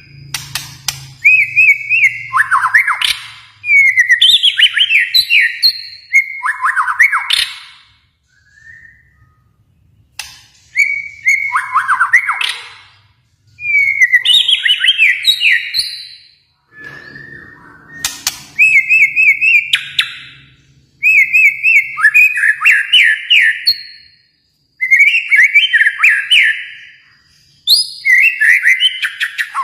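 A Kalimantan murai batu (shama) sings loudly, phrase after phrase of rapid whistled notes. Each phrase lasts about two seconds and is separated from the next by a brief pause.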